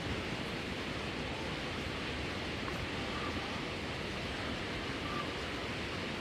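Steady rushing roar of a waterfall, continuous and even, with a few faint short chirps over it.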